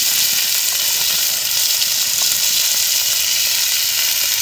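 Fish pieces frying in hot oil in a metal pan, giving a steady sizzling hiss.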